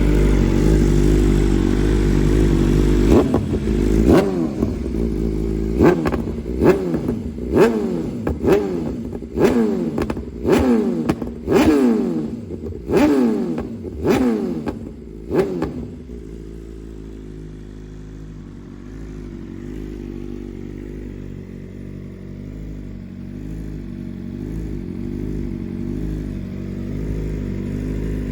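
BMW M1000RR's inline-four engine idling, then revved in a rapid series of short throttle blips, each note snapping up and falling back, before settling to a steady idle for the second half.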